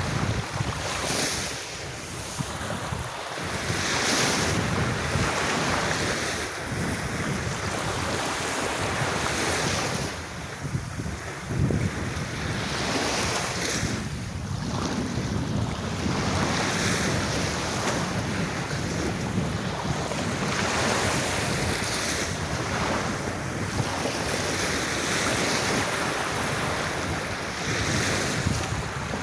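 Sea waves breaking and washing up a beach, the surf swelling and easing every few seconds, with wind buffeting the microphone.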